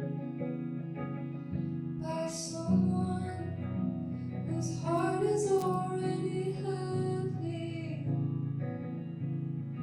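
A singer-songwriter singing a song with plucked guitar accompaniment, played live.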